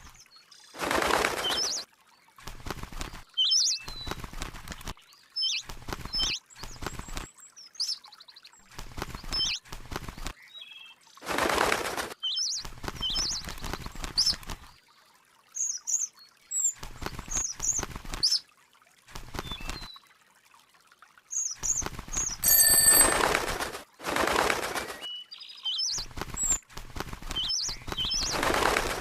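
A bird flapping its wings in repeated short bursts, with short high chirps between the bursts.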